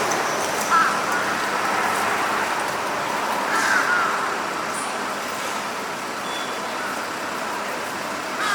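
Steady urban traffic noise, with short crow calls about a second in and again near four seconds.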